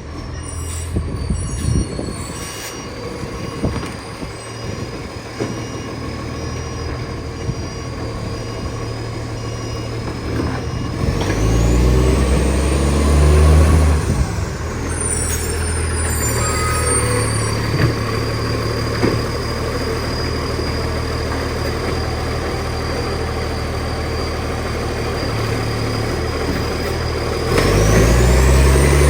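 Garbage truck's diesel engine running with a large exhaust leak, revving up twice, about a third of the way in and again near the end. A high whine rises with each rev, and there are short hisses of air.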